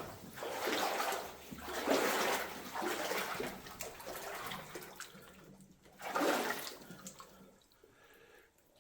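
Water splashing and sloshing in repeated surges about a second apart, as boots wade through flooded mine-tunnel water. The surges fade out near the end.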